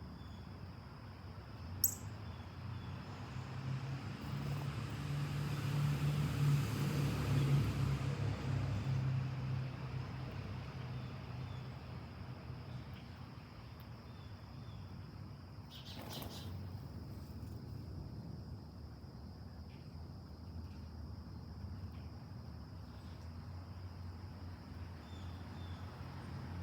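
A vehicle passes, its low rumble and tyre hiss swelling to a peak about seven seconds in and then fading, over a steady high insect drone. There are a few faint bird chirps and a sharp click about two seconds in.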